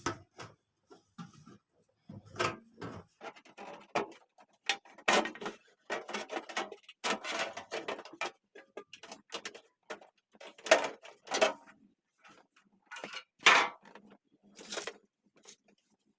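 Irregular metallic clicks, knocks and scrapes of a microwave oven's sheet-metal outer cover being worked loose and lifted off after its screws have been removed.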